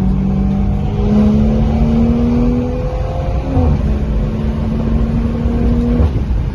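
Car engine accelerating under load, its pitch climbing steadily, dipping briefly about three and a half seconds in, then holding until it cuts off about six seconds in, over a steady low road rumble.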